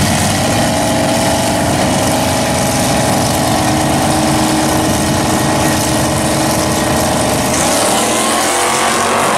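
Engines of two drag-race cars, a Camaro and a Nova, running staged side by side at the starting line. About eight seconds in the sound changes and the pitch climbs as they rev.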